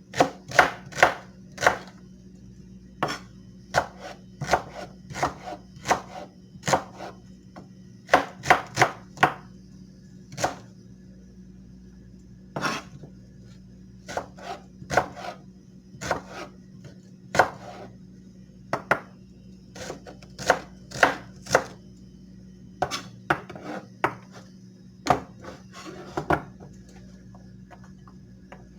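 Knife chopping on a cutting board: sharp knocks in short, irregular runs. This is typical of trying out a freshly sharpened knife. The knocks stop near the end.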